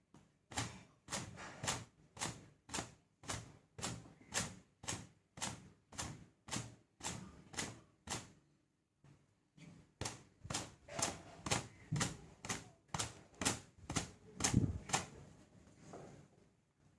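Wet hair being slapped and beaten with a gamcha (thin cotton towel) to wring the water out: sharp slaps about two a second, a short pause around the middle, then a second run.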